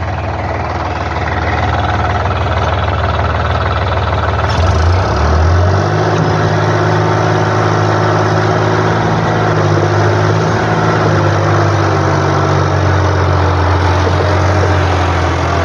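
Diesel engine of a tractor or backhoe loader running steadily; its note shifts about five seconds in and then holds steady.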